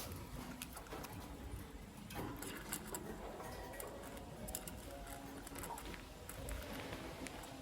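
Lovebirds moving about and pecking, giving irregular light clicks and taps over a low background hum, with no clear chirping.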